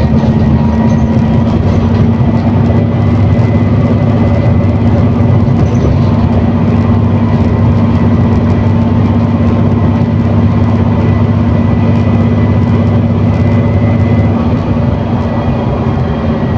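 ADL Enviro400 City double-decker bus with Voith automatic gearbox, heard from inside the saloon, running steadily on the move with a constant low engine drone. It eases slightly about fourteen seconds in.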